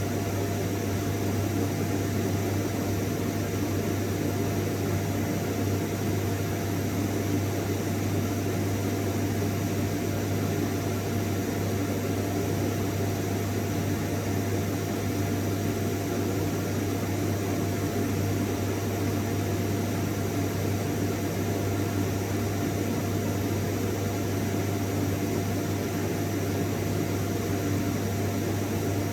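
Vacuum cleaner running steadily: an even motor hum with a strong low drone and a thin, steady whine over a broad rush of air.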